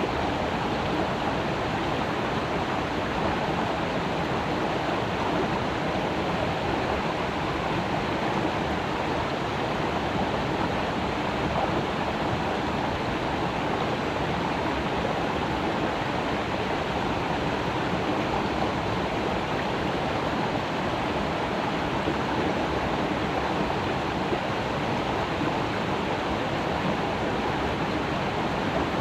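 Creek water flowing, a steady rushing babble with no breaks or distinct events.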